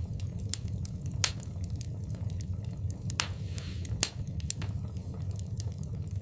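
Wood fire burning in a fireplace: a steady low rumble of flames with irregular crackles and sharp pops from the burning logs, the loudest pops about a second in and about four seconds in, and a brief hiss just after three seconds.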